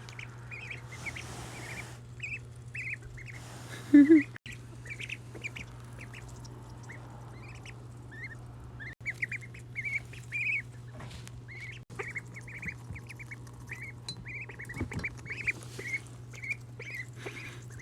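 Ducklings peeping over and over, short high calls. A steady low hum runs underneath, with a few bursts of rustling and one loud low thump about four seconds in.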